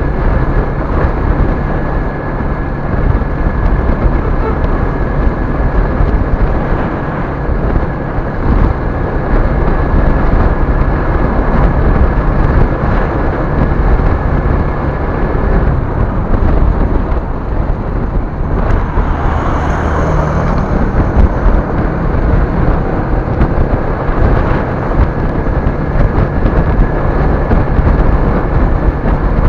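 Vehicle driving noise: a steady low rumble of engine, tyres and wind on the microphone, with a brief swell of higher sound about two-thirds of the way through.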